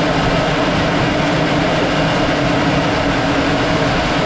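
Aircraft in flight, heard from on board: a steady, loud drone of engine and rushing air with a constant low hum.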